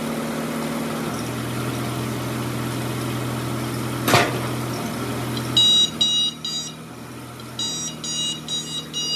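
A motor hums steadily for about five and a half seconds, with one sharp sweep partway through. Then come short high electronic beeps, three together and then a longer run of them.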